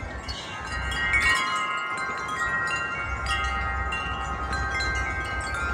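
Several wind chimes ringing in a gust of wind, many tubes struck over and over so their tones overlap and ring on, with wind rumbling on the microphone.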